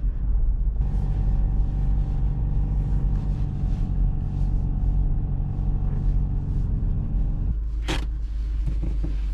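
Subaru WRX's flat-four engine idling in neutral while the car coasts downhill on snow, heard from inside the cabin under a steady low rumble. The engine hum drops away about seven and a half seconds in, followed by a single sharp knock.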